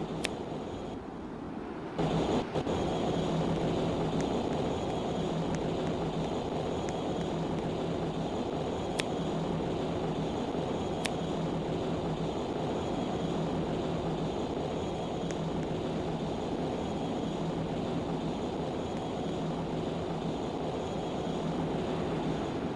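Cargo ship's engine running with a steady drone and a constant low hum. The sound is weaker at first and steps up suddenly about two seconds in, then holds level.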